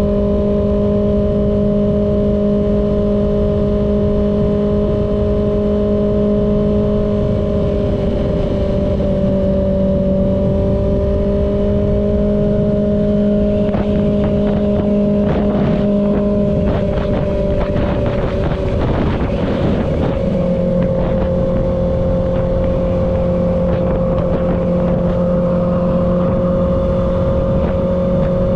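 Kawasaki ZX-6R's inline-four engine running at a steady cruising speed, its pitch held nearly constant, with heavy wind rumble on the microphone. About halfway through, a jumble of other shifting tones and short clatters overlaps briefly, and the engine note settles a little lower.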